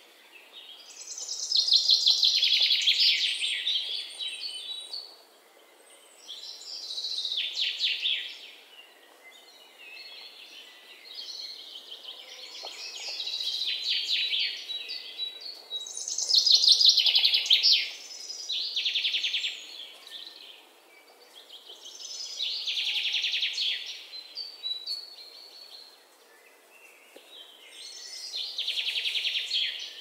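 Small birds calling in repeated bursts of rapid, raspy chatter, each a second or two long and coming every few seconds.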